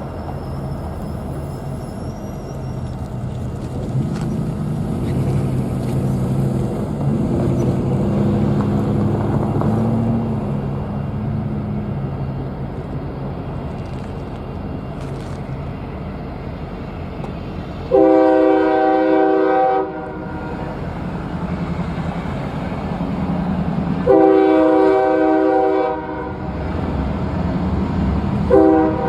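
Diesel locomotive approaching, its engine drone growing louder, then its multi-note air horn sounding two long blasts and the start of a short one: the opening of the standard grade-crossing signal (long, long, short, long).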